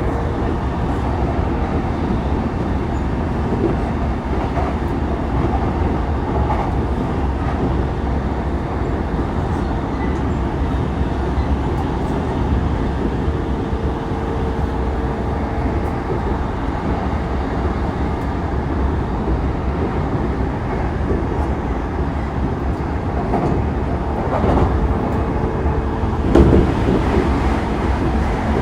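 E233-3000 series electric train running at speed: a steady rumble of wheels on rail with a faint steady motor tone. A few louder knocks come near the end, from wheels crossing joints or points.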